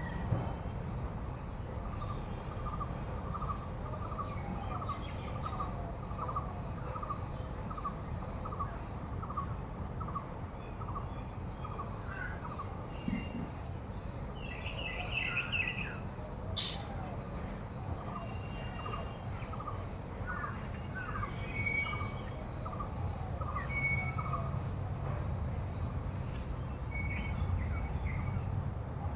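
Several birds calling outdoors. One repeats a short note about twice a second for long stretches, and other birds add scattered higher chirps. Under them runs a steady high insect drone.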